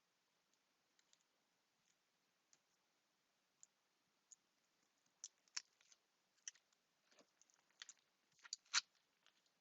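Faint, scattered clicks and taps from hands handling tape and small craft pieces. They are sparse at first and come more often and a little louder in the second half.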